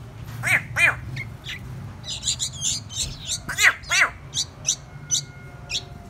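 Caged fledgling songbirds calling: four loud, harsh squawks, two about half a second to a second in and two more around three and a half to four seconds, with quick, high chirps in between, the calls of young birds begging to be fed.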